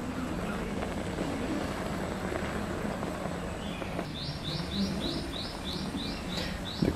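A bird chirping: a quick run of about ten short, high chirps at roughly four a second, starting about four seconds in, over a low steady background hiss.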